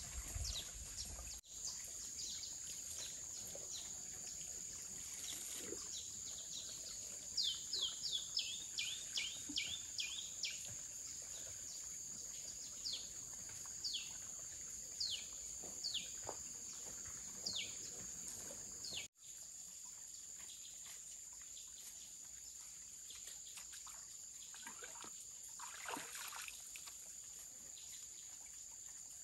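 Forest ambience with a steady high-pitched drone. A bird calls with a quick run of descending whistled notes about seven seconds in, then gives single descending notes roughly once a second until past the middle. The ambience cuts out abruptly twice.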